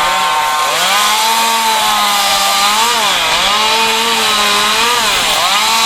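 Two-stroke chainsaw running at high revs while carving wood; its pitch drops and recovers about every second as the chain bites into the wood and clears.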